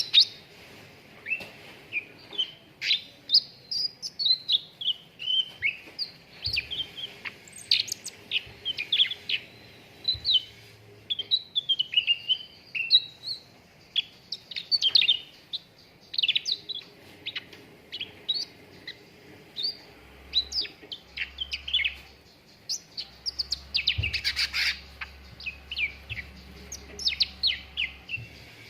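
Cucak ranting songbird singing: a fast, unbroken string of short sharp chirps and quick rising and falling whistled notes, high-pitched, used as a training recording to get a kept bird singing.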